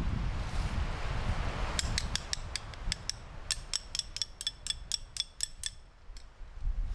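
Wind on the microphone, then a run of about twenty sharp mechanical clicks, about five a second with a short break midway, like a ratchet being worked.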